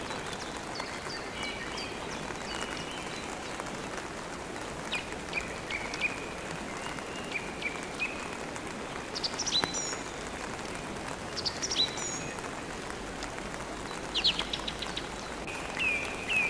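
Steady rain with small birds chirping over it in short, high calls. The loudest bursts of chirping come around the middle and again near the end.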